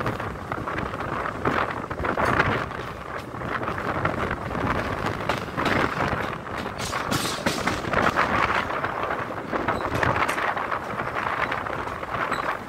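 Passenger train running along the track, heard from an open coach doorway: a continuous rumble and clatter of wheels on the rails, swelling and easing every second or two, with wind buffeting the microphone.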